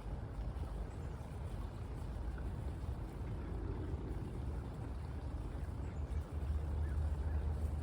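Steady low rumble, growing louder about six seconds in.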